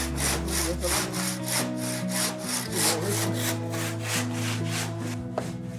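Handsaw cutting through a stone wall: steady back-and-forth strokes, about three a second, rasping as the blade bites into stone and mortar.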